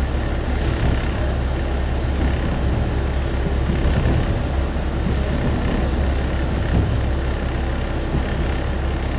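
Steady low rumble inside a single-car diesel railcar running along the line, engine drone and wheel-on-rail noise heard from the passenger cabin.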